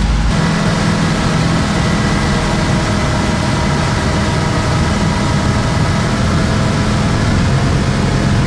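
An engine running steadily and loudly, with a constant hum of even pitch under a noisy rush.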